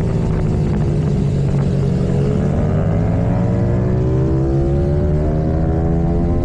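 Symoto 140cc single-cylinder four-stroke pit bike engine at speed on track: the engine note dips briefly, then rises steadily for about four seconds as it revs up, and drops sharply near the end.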